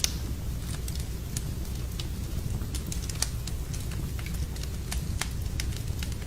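Wood fire in a fireplace crackling: irregular sharp pops and snaps over a steady low rumble of the flames, with a slightly louder pop right at the start.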